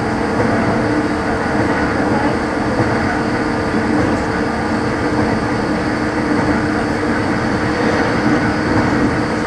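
JR 115-series electric multiple unit (KuMoHa 115-1521) running at speed, heard inside the car: a steady mix of traction motor hum and wheel-on-rail noise.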